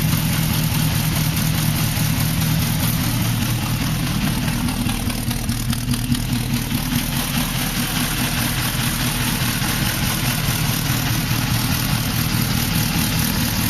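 Austin A90 Atlantic's 2.66-litre straight-four petrol engine running steadily on full choke after a cold start, in gear and turning the rear axle, with the exhaust blowing. The engine note shifts slightly about two and a half seconds in.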